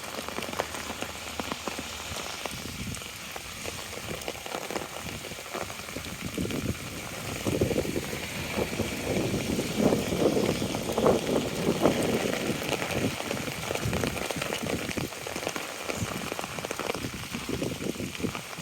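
Steady rain pattering on an umbrella: a dense run of small drop impacts, growing louder and rougher for a few seconds around the middle.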